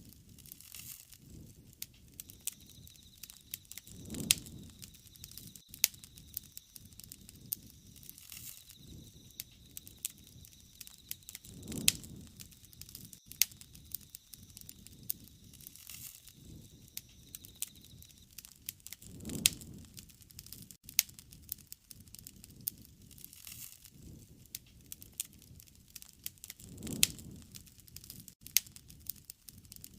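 Wood fire burning, with sharp pops and crackles of the burning wood throughout and a soft low rush swelling up about every seven or eight seconds.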